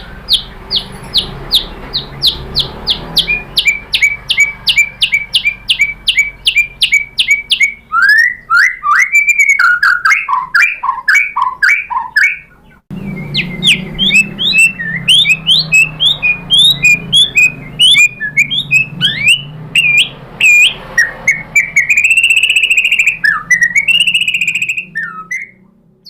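White-rumped shama singing: a fast run of repeated sharp notes, about five a second, then varied whistled phrases and chattering, broken by a brief gap about halfway through, with a longer held note near the end.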